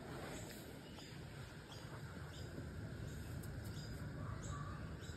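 Birds chirping in the background: short, high chirps every half second to a second over a low, steady rumble.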